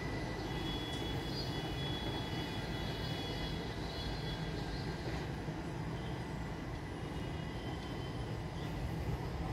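Express train's passenger coaches rolling past at steady speed, a continuous rumble of wheels on rails. A faint high ringing tone sounds over the first few seconds.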